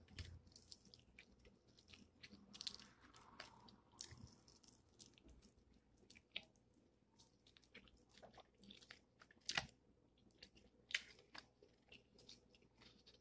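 A person chewing and biting fried chicken close to the microphone: quiet wet mouth clicks and crackly bites into the batter, with two sharper clicks about ten and eleven seconds in.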